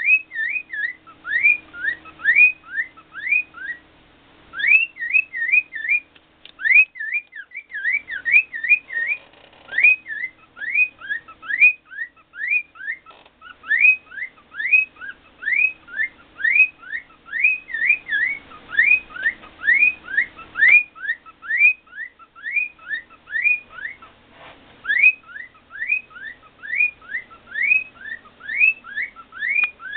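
Cockatiel whistling its song: a long string of short rising whistle notes, about two a second, with a few brief pauses.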